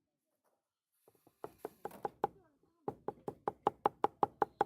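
Rapid, even wooden knocking, about five strokes a second, starting about a second and a half in, with a short break and then running on steadily.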